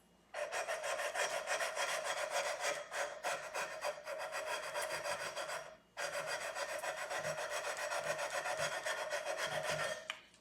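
Sandpaper on a long fret-levelling bar rubbed rapidly back and forth along an electric guitar's frets, a steady rasp of many short even strokes. It stops briefly about halfway and again near the end. This is the frets being sanded level, grinding down the high ones.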